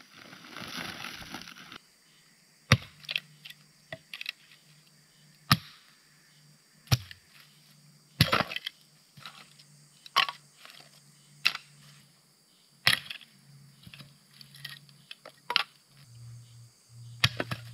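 Dry hardwood cracking sharply, again and again, as it is broken up into kindling for a campfire, a crack every second or two. A rustle of wood being handled comes first.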